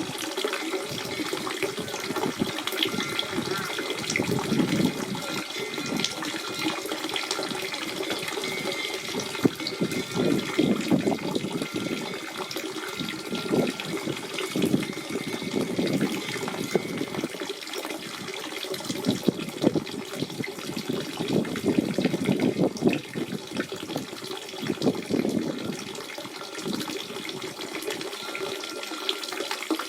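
Natural spring water running and splashing steadily, with a gurgling flow that swells and eases every few seconds.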